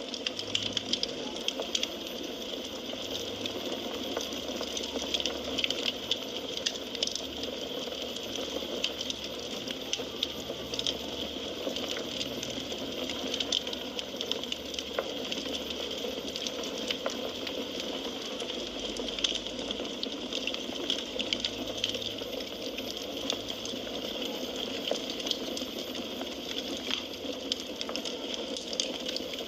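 Firewood burning in a fireplace, crackling with frequent small pops and snaps over a steady hiss.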